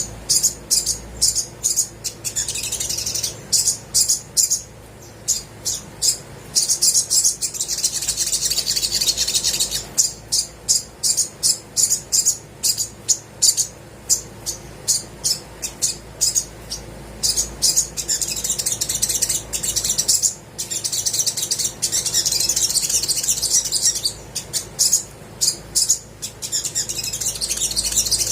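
Olive-backed sunbird singing: quick runs of high, thin chirps alternating with longer stretches of rapid trilling.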